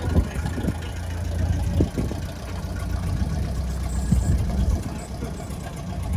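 The 1913 Leyland S3 bus's four-cylinder 5.2-litre petrol engine idling with a steady low rumble and a few knocks.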